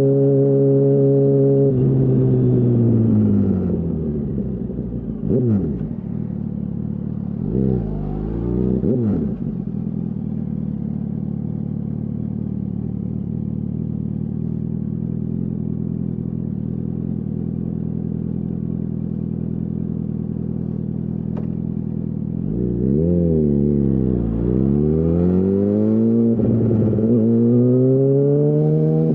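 2008 Yamaha R1's inline-four engine through a Termignoni full exhaust. It runs at steady speed, then the revs fall away, two quick throttle blips follow, and it settles to a long low idle. Near the end it revs up hard through several gear changes, each rise in pitch dropping at the shift.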